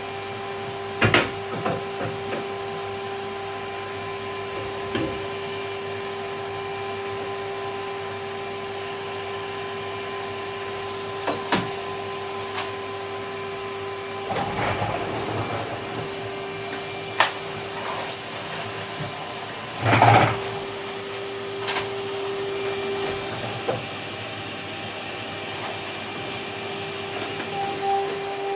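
Vacuum cleaner running steadily, with a few sharp knocks and a short rustle as it is worked over surfaces; the loudest knock comes about two-thirds of the way through.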